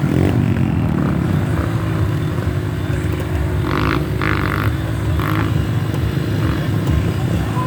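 Off-road trail motorcycle engines running steadily, with a few short higher-pitched bursts about four and five seconds in.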